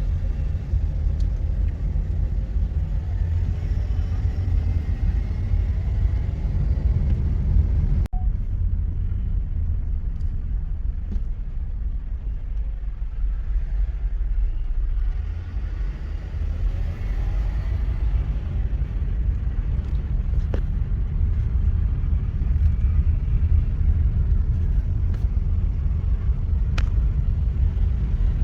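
Steady low rumble of a car driving, heard from inside the cabin, with a brief break about eight seconds in.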